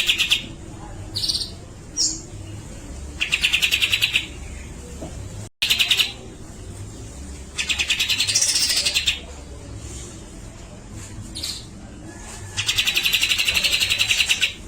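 Grey-cheeked bulbul (cucak jenggot) singing: about four loud, rapid buzzy trills of a second or so each, with short sharp notes between them. One trill carries a whistle that sweeps up and back down. A low steady hum runs underneath.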